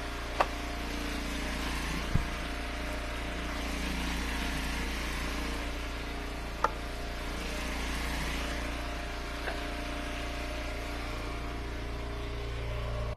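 Engine of a hydraulic firewood splitter running steadily, with a few sharp knocks of wood scattered through.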